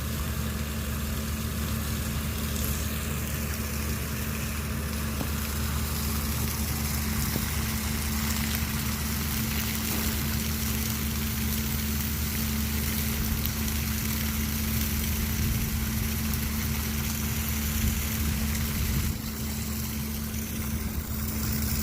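A steady low engine-like hum with a constant hiss over it, easing off slightly about nineteen seconds in.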